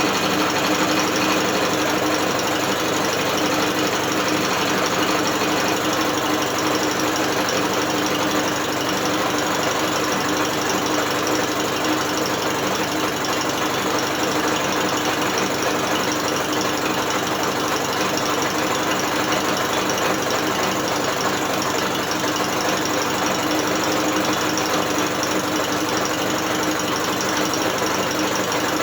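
British Seagull outboard motor being spun over by an electric drill rather than running under its own power, the drill and the outboard's moving parts making a steady mechanical whirr.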